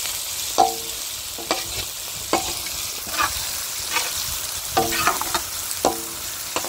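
Pav bhaji vegetable base of ginger-garlic, tomato, chilli and green peas frying in a large pan with a steady sizzle. A ladle scrapes and knocks against the pan roughly once or twice a second as the mix is stirred, each knock ringing briefly.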